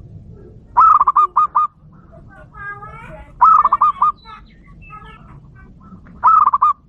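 Zebra doves (perkutut) cooing: three loud phrases of quick repeated notes, about a second in, around the middle and near the end, with softer bird chirps between them.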